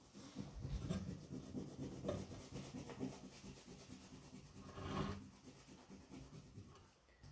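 Wax crayon rubbing across paper in irregular strokes as an area is coloured in.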